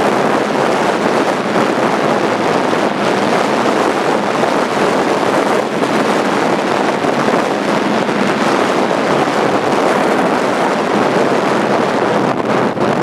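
Steady, loud wind noise on the microphone of a camera riding on a moving motorcycle, with no clear engine note standing out.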